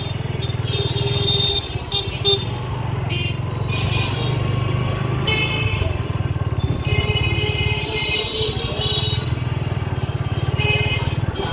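Motorcycle engine running steadily while riding in street traffic, with vehicle horns honking on and off.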